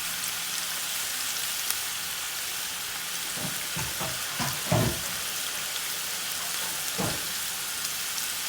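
Marinated chicken strips frying in olive oil in a frying pan over high heat: a steady sizzling hiss, with a few dull knocks around the middle and one more near the end.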